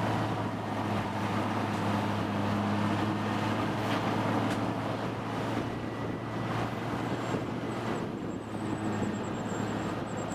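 Large industrial wood grinder running: a steady low engine drone under continuous mechanical noise.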